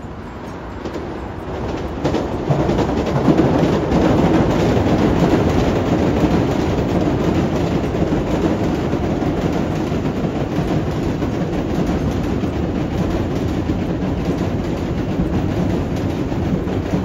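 Shinkansen bullet train passing at speed: a steady rushing rumble of wheels on rail that swells about two seconds in and then holds.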